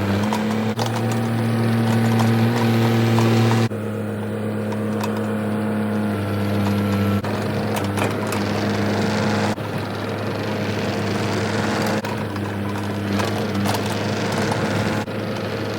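Bobcat E32 mini excavator's diesel engine running steadily under work. Scattered cracks and knocks of wood are heard as limbs and stumps are broken and moved, and the engine's pitch shifts abruptly several times.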